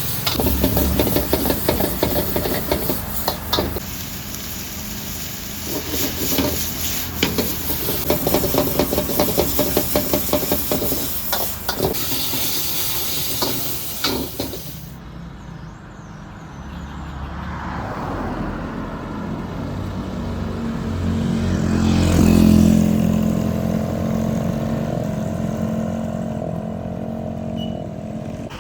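Food frying with a loud sizzling hiss and sharp metal clanks of cooking utensils. About halfway through this gives way to street traffic, with an engine rising and falling as it passes.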